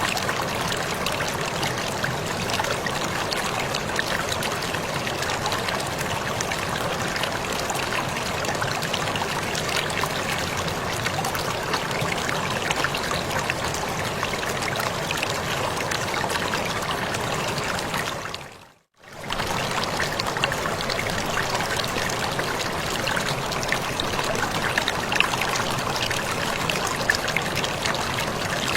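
Waterfall water splashing and running steadily. Near nineteen seconds in it fades out to near silence for a moment and straight back in.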